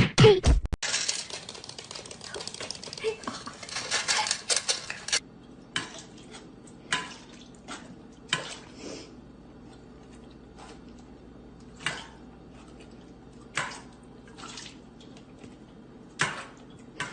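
Hard objects clinking and clattering, like dishes or a bowl being knocked about. It starts as a dense rattle for the first few seconds, then settles into single sharp clinks every second or so. A loud vocal sound cuts off just under a second in.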